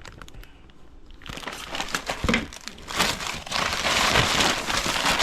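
Packaging rustling and crinkling as exhaust parts are handled in their shipping box. It starts about a second in and grows louder and busier near the middle.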